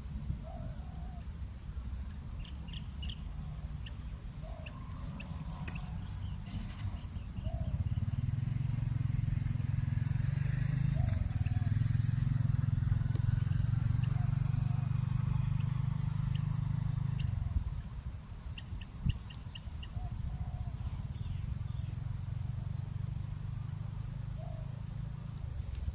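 Spotted doves cooing at intervals, short low coos every few seconds, with small high bird chirps. A low steady rumble, like a passing engine, rises about eight seconds in and fades out around seventeen seconds.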